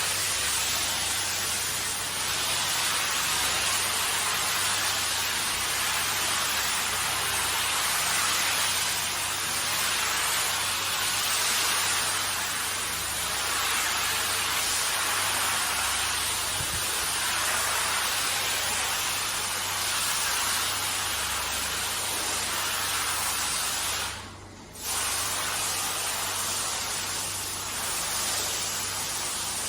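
Hand-held car wash sprayer spraying water onto a carpet, a steady loud hiss that stops briefly about 24 seconds in and then starts again.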